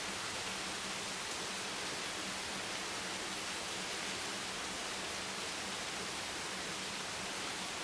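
Steady rain, an even hiss with no distinct drops or changes.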